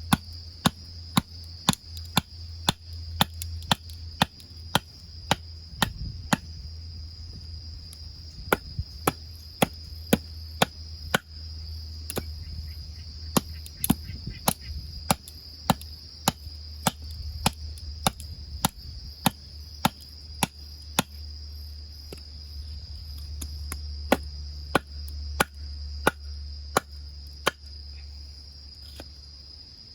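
Wood fire in a wood-burning grill crackling, with sharp, irregular pops about one to three a second, over a steady high chirring of insects.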